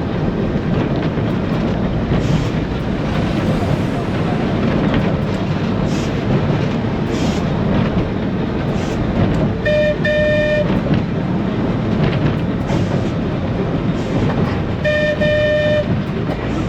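Manx Electric Railway electric tram running along the track, a steady rumble heard from on board. Its horn sounds a double toot about ten seconds in and again about fifteen seconds in.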